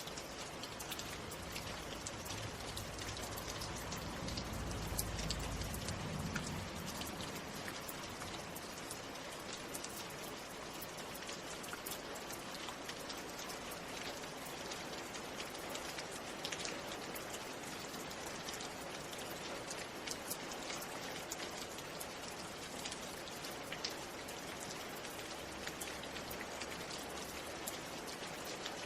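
Steady rain falling, with many individual drops ticking. A low rumble swells and fades about four to six seconds in.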